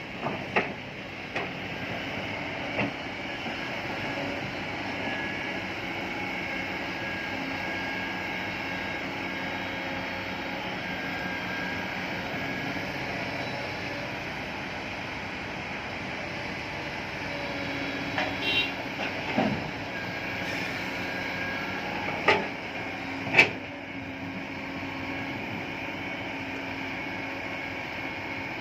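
Steady running noise of a vehicle or heavy machine, broken by a few sharp knocks, the two loudest close together late on.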